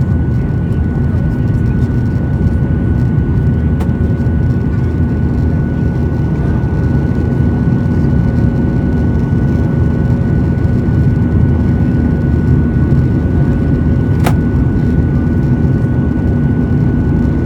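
Steady roar and hum of a Boeing 737-800's CFM56-7B jet engines and airflow, heard from inside the cabin during the climb after takeoff, with a steady whine over the rumble. Two brief clicks come about four seconds in and again near the end.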